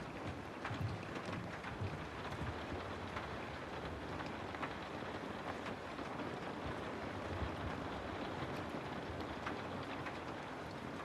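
Steady rain falling: an even hiss with scattered individual drops tapping.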